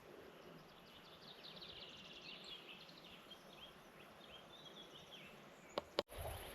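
Faint birdsong, runs of short high chirps, over quiet outdoor background noise; two sharp clicks near the end.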